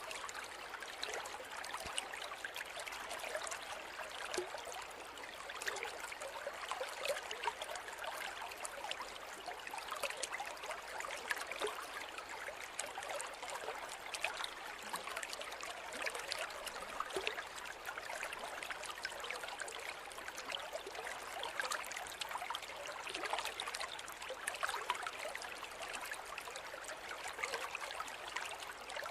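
A shallow forest river running over stones, a steady babble and gurgle with many small splashes.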